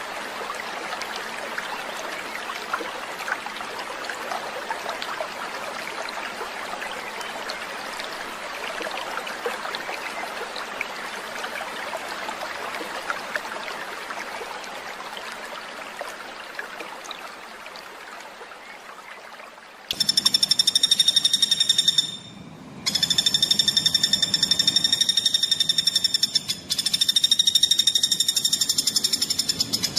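Bird-training (masteran) recording of songbird sound: first a dense, fading chorus of small ticks and chirps, then a sudden change about two-thirds in to a loud, very fast, steady-pitched buzzing trill repeated in long bursts with short breaks, the rapid, tightly packed song used to train caged birds.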